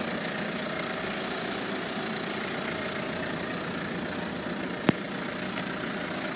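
A car engine idling steadily, with a single sharp click about five seconds in.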